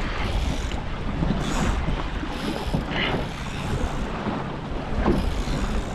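Strong wind buffeting the microphone and water rushing along the hull of a 29er sailing dinghy under way in heavy wind, with short surges of splashing hiss about once a second.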